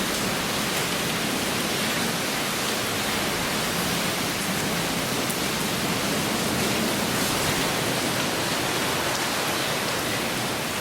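Heavy rain pouring down, a dense, steady hiss without a break.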